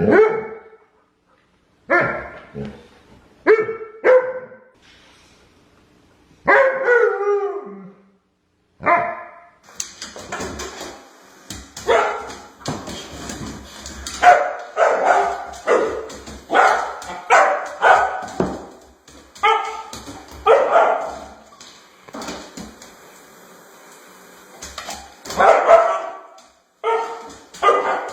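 A dog barking again and again, single barks and short runs of barks spaced a second or two apart, some of them drawn out and falling in pitch.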